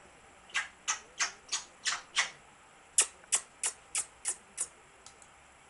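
African grey parrot making a string of short raspy hissing clicks, about three a second, in two runs of six with a pause between.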